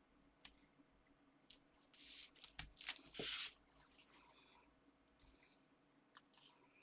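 Paper and card being handled on a craft desk: a few light taps, then a brief burst of sheets sliding and rustling about two to three and a half seconds in.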